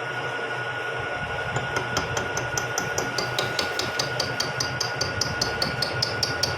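Vertical milling machine running with a steady hum while milling a spur gear. From about a second and a half in, the cutter taps sharply and regularly against the gear blank, about four times a second: an interrupted cut.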